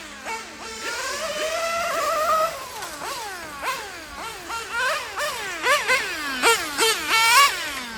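A small two-stroke nitro RC car engine, the OS Speed R2103, screaming at high revs. Its pitch climbs under throttle and drops sharply off throttle, over and over, with short, fast rises crowding together in the second half.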